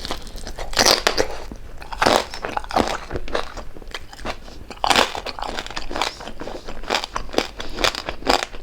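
Close-miked chewing of crispy deep-fried pork jowl, with irregular crunches as the crackling skin is bitten and chewed; some crunches are louder than others.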